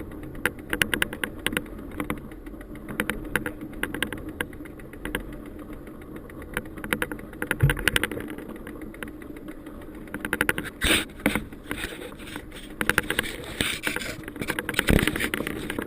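Bicycle rolling along a rough dirt trail: a steady rumble with rapid, irregular rattling and crunching clicks from the tyres and frame, and a low thump over a bump about halfway through and again near the end.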